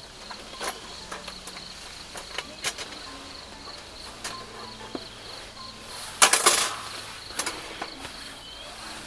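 Crickets chirping, a steady high pulsed trill. Scattered clicks and knocks sound over it, the loudest a short burst of clatter about six seconds in.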